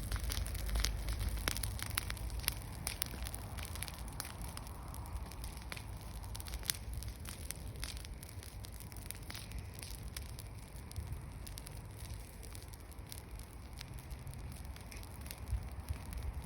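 Burning grass and branch embers crackling with many small irregular pops, denser in the first half, over a low rumble.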